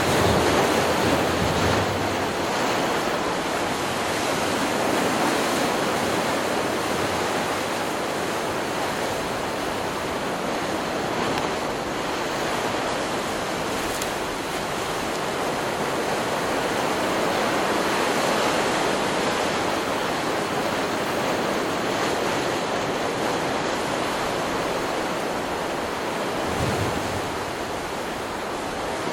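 Ocean surf: waves breaking and washing ashore in a continuous rush, swelling and easing in loudness, with wind in the background.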